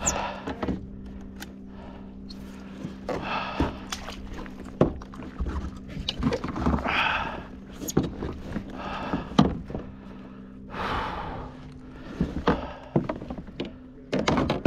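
Irregular thunks and knocks in a fishing boat, with short rustling or splashing swells, over a steady low hum.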